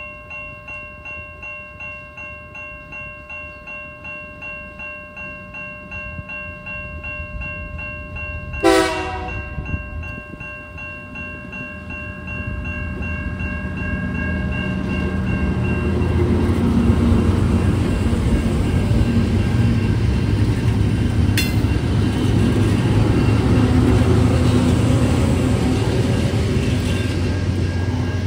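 Level-crossing bells ringing about twice a second, with one short train-horn blast about nine seconds in. Then the Tasrail TR-class diesel-electric locomotives' engines grow to a loud, deep rumble as the locomotives pass over the crossing, with a single clank about two-thirds of the way through.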